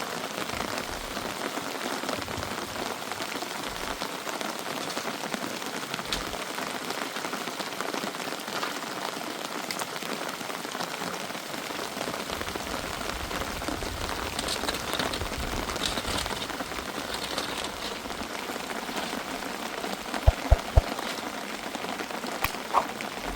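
Steady rain falling, a dense even hiss of many small drop impacts. Near the end come a few sharp knocks.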